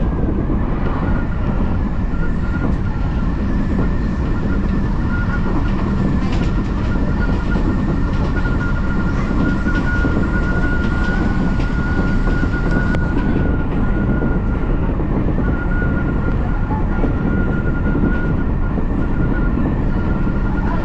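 Odakyu Line electric commuter train running at steady speed: an even rumble of wheels on track, with a high whine held at one pitch that wavers slightly throughout.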